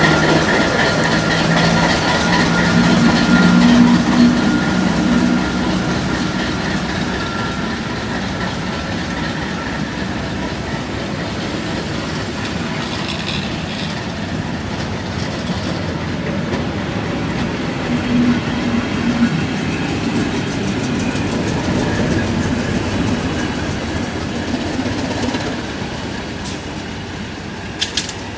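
Northern Ireland Railways 80 class diesel-electric multiple unit running past at close range: its diesel engine drones and the wheels clickety-clack over the rail joints, loudest in the first few seconds and slowly fading as it moves away. Two sharp clicks near the end.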